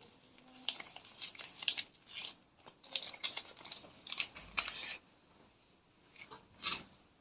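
Paper and card soap wrappers being handled and torn open: a run of quick, crisp crinkling and tearing strokes that stops about five seconds in, with two short rustles near the end.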